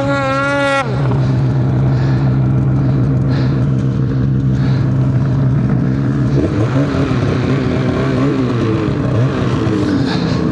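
Turbocharged two-stroke snowmobile engine of a 2023 Polaris Khaos Boost running steadily, revving up about six seconds in and easing back off around nine seconds.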